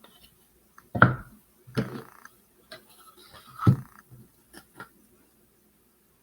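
Knocks and clatter of objects being handled and set down on a work table: three louder knocks, about a second in, two seconds in and near four seconds in, with lighter clicks and taps between them.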